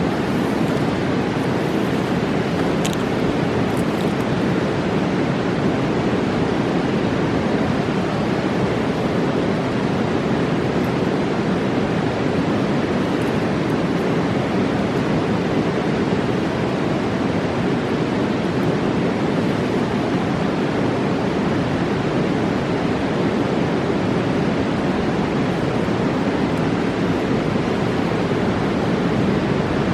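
A Rocky Mountain river roaring steadily, a constant rush of fast water. A few faint clicks sound in the first few seconds.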